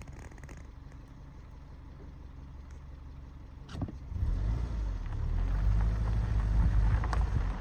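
Vehicle engine idling steadily. About four seconds in, after a single knock, a much louder low rumble takes over.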